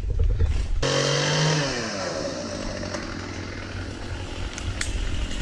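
Chainsaw engine that starts sounding about a second in, revs and winds down in pitch, then keeps running.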